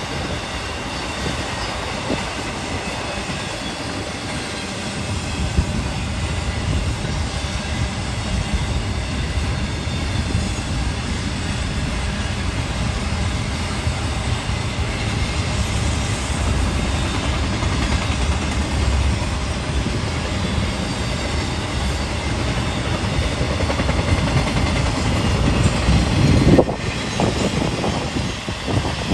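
Train cars rolling past on the rails: a steady rumble with the clatter of wheels on the track, swelling briefly near the end.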